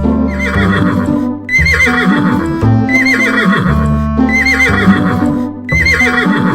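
Horse neighing, the same whinny repeated about five times at even spacing, over background music.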